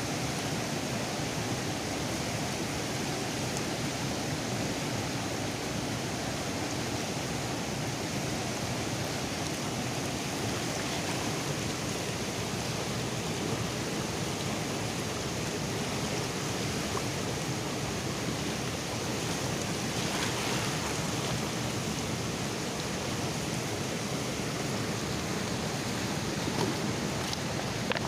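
Steady rush of the Kali Gandaki river's flowing water.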